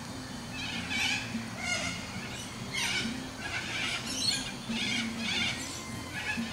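Birds calling over and over, a harsh call about once a second, over a low steady hum.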